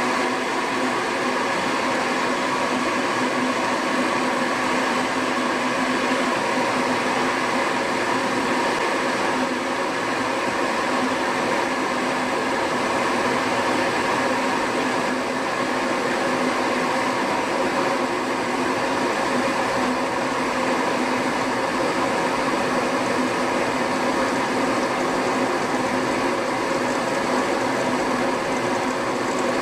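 A 2.2 kW NEXT Dial metal electric kettle heating a full 1.7 litres of water toward the boil: a steady rushing noise that holds even throughout.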